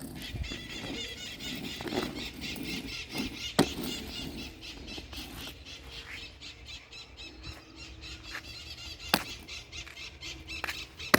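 Steady high-pitched chatter and squeals of many birds, with two sharp knocks about three and a half and nine seconds in.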